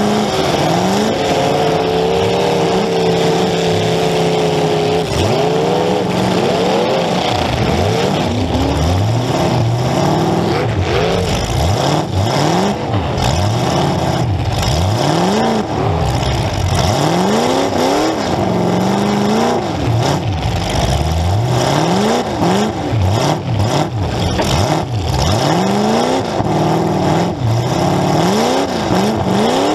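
Demolition derby car's engine, heard from onboard, held at high revs for the first few seconds, then revving up and down over and over as the driver accelerates and backs off.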